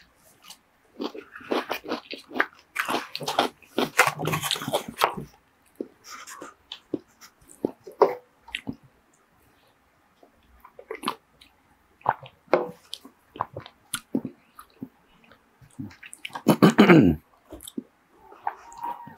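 Close-miked eating sounds: crunchy chewing of poke and mouth clicks, then sparser swallowing and mouth sounds while drinking from a can. Near the end comes a short, loud throat sound that falls in pitch.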